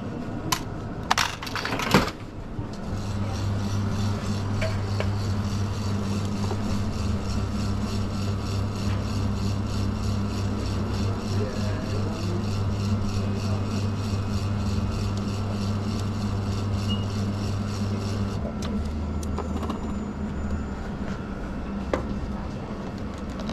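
Espresso machine being worked: a few sharp knocks at the start, then a steady mechanical hum for about fifteen seconds. The hum changes to a lower, shorter one near the end.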